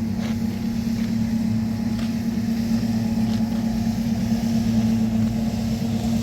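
A motor engine running steadily, with a constant low hum and rumble that does not change in pitch.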